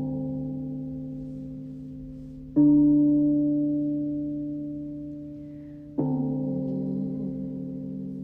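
Resonant sound-healing instruments struck one at a time, each note ringing out and slowly fading. A note already ringing at the start is joined by a fresh strike about two and a half seconds in and another about six seconds in, each at a different deep pitch.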